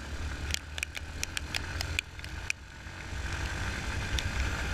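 Yamaha Fazer 250 single-cylinder motorcycle riding on a dirt road, heard mostly as a steady low wind rumble on the microphone. Scattered sharp ticks run throughout.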